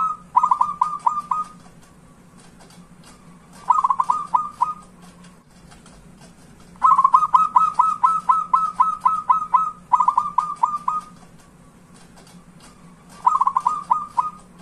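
Zebra dove (perkutut) singing: five bursts of rapid, staccato cooing notes, the longest near the middle, with short pauses between. Faint chirping of small birds underneath.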